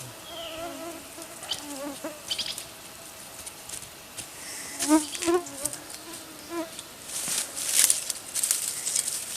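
Flying insects, mosquitoes among them, buzzing close by, their wavering whine swelling as one passes near about five seconds in. Light crackles and rustles come and go, most of them in the last few seconds.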